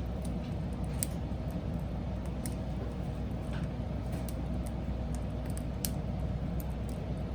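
Burning wood crackling and popping with sparse, irregular sharp clicks over a steady low rumble.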